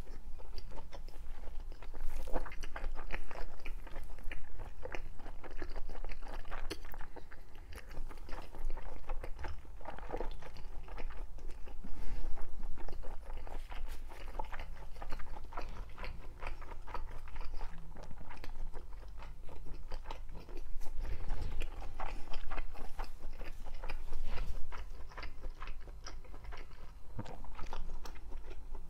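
A person chewing mouthfuls of food close to the microphone, a dense run of small crackly chewing clicks, a little louder about twelve seconds in and again past twenty seconds.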